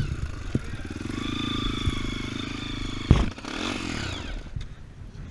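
Trail motorcycle engine running at steady revs, then a loud knock about three seconds in, after which the engine note falls away and fades.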